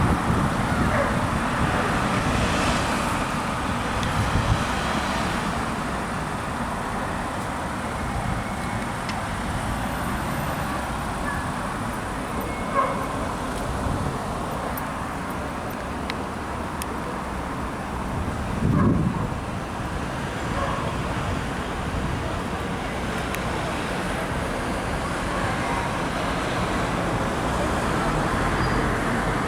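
Road traffic passing, a steady mix of engine and tyre noise, with a brief louder low thump about two-thirds of the way through.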